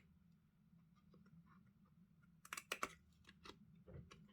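Near silence with a low hum, broken about two and a half seconds in by a quick run of small clicks and taps and one more a little later: card pieces being handled and fitted on a craft desk.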